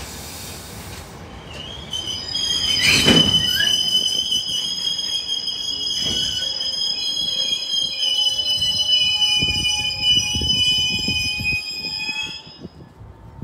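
Train of empty cement tank wagons squealing as it brakes towards a stop: a steady high-pitched squeal sets in about two seconds in and cuts off about a second before the end, over a low rumble of the wheels. One loud clank comes just after the squeal starts.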